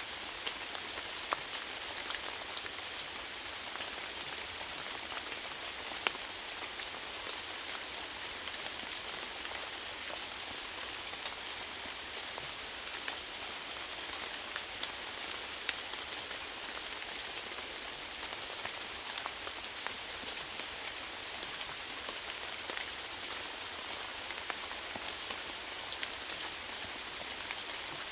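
Steady rainfall pattering on a surface, an even hiss with many individual drops ticking through it.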